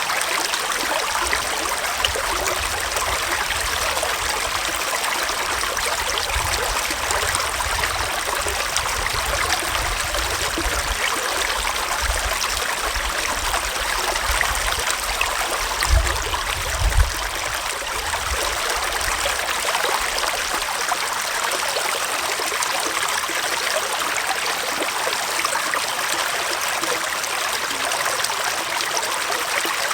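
Small forest stream flowing steadily, a continuous even rush and trickle of water. A low rumble comes and goes under it for the first two thirds, with two short low thumps a little past the middle.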